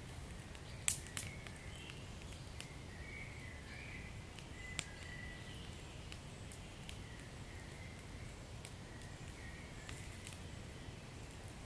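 Wood fire in a fireplace crackling over a low steady rumble, with scattered sharp pops, the loudest about a second in. A faint wavering high whistle comes and goes.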